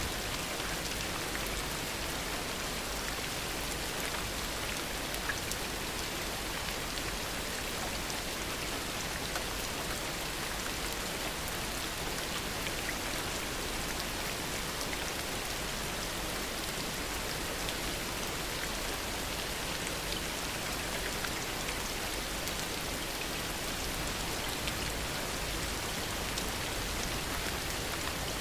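Steady heavy rain falling, a dense hiss of many raindrops with fine patters, even throughout with no thunder.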